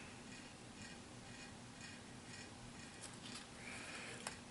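Quiet room tone with a faint steady hum and a few light clicks near the end.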